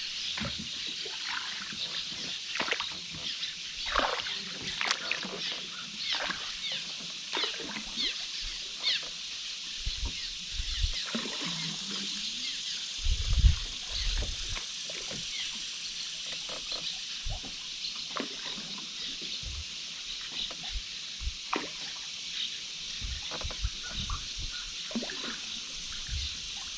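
Canoe paddling on a river: water splashing, trickling and dripping with short clicks, and a few low knocks on the hull, loudest about 13 seconds in. Birds and insects keep up a steady high background.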